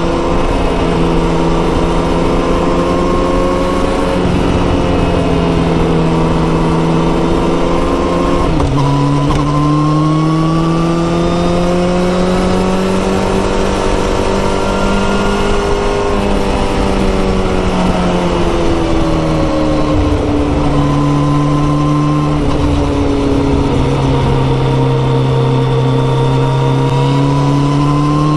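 Kawasaki ZX-14R's inline-four engine through a Yoshimura aftermarket exhaust, heard from the rider's seat under way. Revs climb slowly, drop suddenly about a third of the way in as it shifts up, climb again, then fall away as it slows before building once more near the end.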